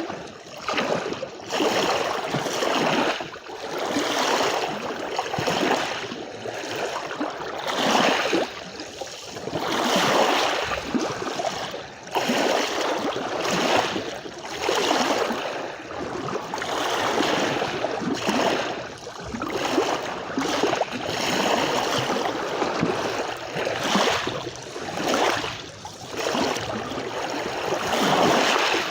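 Small sea waves breaking and washing up on a beach, a surge of rushing water about every two seconds.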